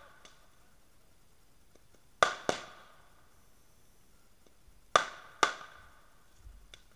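Sharp cracks from a burning Christmas tree set with fireworks. They come in pairs a quarter to half a second apart, about two seconds in and again about five seconds in, each with a short echoing tail.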